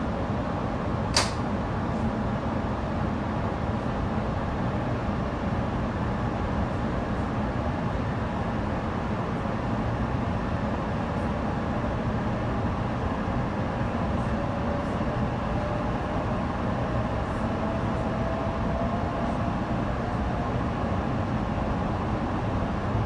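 Steady rumble of a passenger train running, with a faint whine rising slowly in pitch during the second half as it picks up speed. There is one sharp click about a second in.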